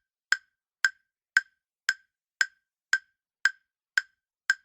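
Quiz countdown-timer sound effect: short, sharp ticks, evenly spaced at about two a second.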